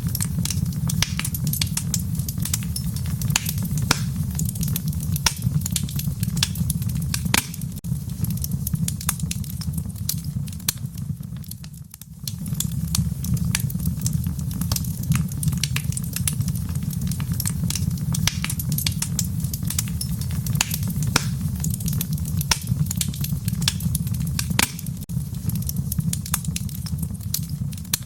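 Wood fire burning in a fireplace, crackling with dense, irregular sharp pops and snaps over a steady low rumble. The sound dips briefly about twelve seconds in, then carries on as before.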